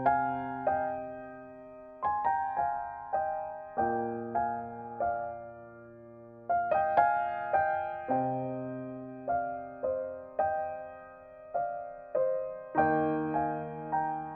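Slow, gentle background piano music, notes struck and left to ring, with a new chord every couple of seconds.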